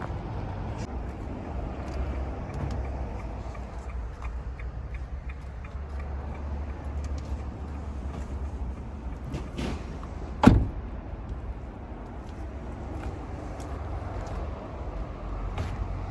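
Vehicle-dismantling work: a steady low machine rumble with scattered light clicks, and one loud bang about ten and a half seconds in.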